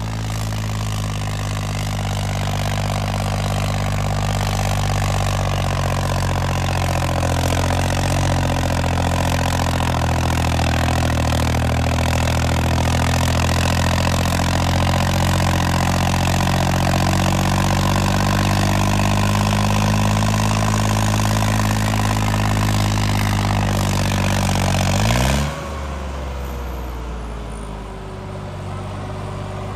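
Tractor diesel engine running hard under full load in a tug-of-war pull, a steady heavy note. About 25 seconds in, the engine note drops sharply in pitch and gets quieter, as the engine comes off full power.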